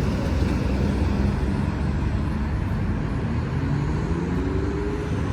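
Motorcycle engines running, a steady low rumble, with one engine rising in pitch about four seconds in.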